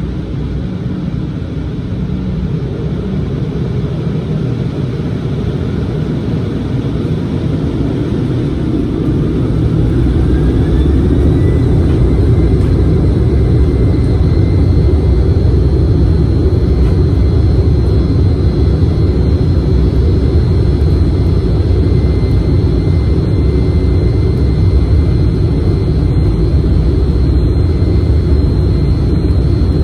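Embraer regional jet's turbofan engines heard from inside the cabin, spooling up to takeoff thrust: a whine rises in pitch about eight to eleven seconds in and settles into a steady high tone, while the deep rumble grows louder.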